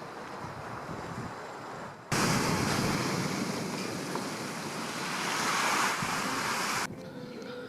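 Steady rushing noise of wind and surf. A louder stretch cuts in abruptly about two seconds in and cuts off just before the end.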